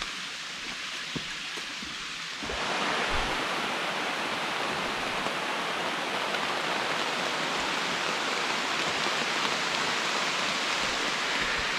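Steady hiss of rain falling on the forest, which becomes suddenly louder about two and a half seconds in.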